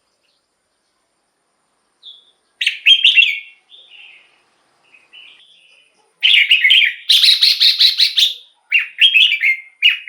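Red-whiskered bulbul singing. After about two seconds of quiet comes a short song phrase and a few soft notes, then from about six seconds in a run of loud, quick chirping phrases.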